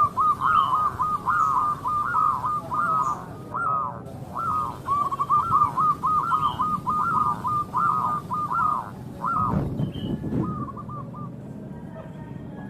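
Zebra dove cooing in long phrases of quick, rolling staccato notes. The phrases break near ten seconds, where a low rustle is heard, and one short phrase follows.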